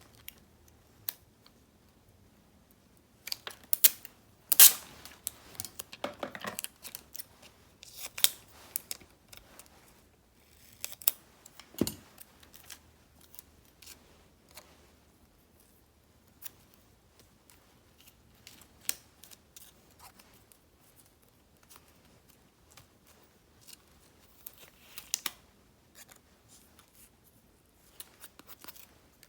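Scissors snipping paper stickers in short, crisp cuts, mostly in a busy run several seconds in and again briefly near the end, with small paper clicks between.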